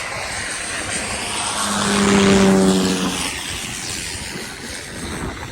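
Propeller airplane flying past. The engine and propeller drone swells to a peak about two seconds in, with a strong low hum, then fades away.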